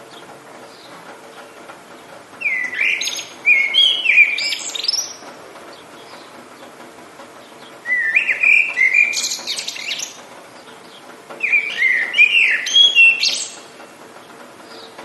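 A songbird singing three loud phrases of quick whistled, sweeping notes, each about two seconds long, over a soft steady hiss of rain.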